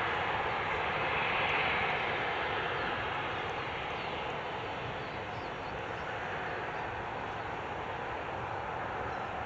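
Jet airliner engine noise, a broad rushing roar that peaks about a second and a half in and then slowly fades as the aircraft moves away.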